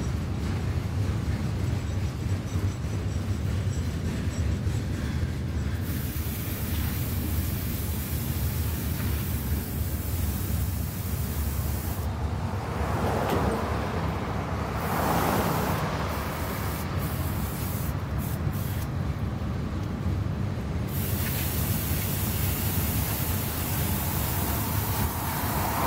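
Freight train rolling past, the steady rumble of its cars' wheels on the rails, swelling briefly louder around the middle.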